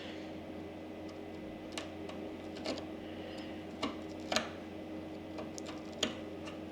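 A steady machine hum with a handful of small sharp clicks and scrapes of hand-tool work on the cue, the loudest about four and a half seconds in.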